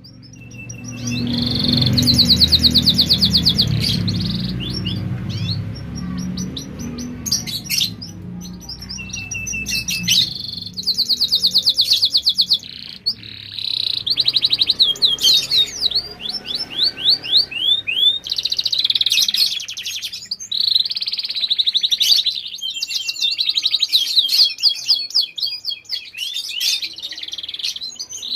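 Domestic canary singing in long, near-continuous phrases of rapid high trills and rolls, with fast downward-sweeping notes mixed in: the bird in full, vigorous song.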